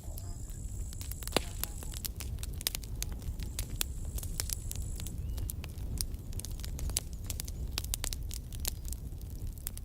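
Campfire burning: wood crackling in quick, irregular snaps and pops over a low steady rumble of flames, with one sharper, louder pop about a second and a half in. A thin high hiss comes and goes twice.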